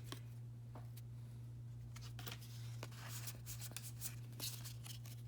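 Pokémon trading cards being handled and flipped through, giving soft scattered clicks and flicks over a steady low hum.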